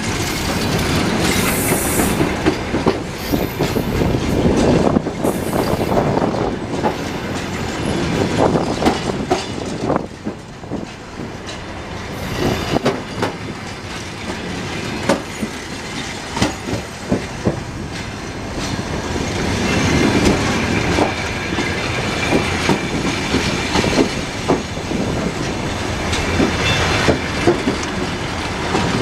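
A passenger train rolling past on arrival, its wheels clacking and knocking over rail joints and points with a steady rumble. Faint wheel squeal in the later part.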